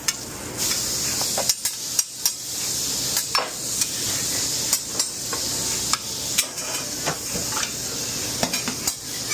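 Food sizzling on a commercial grill, a steady hiss, with scattered sharp clicks and knocks of metal utensils and pans.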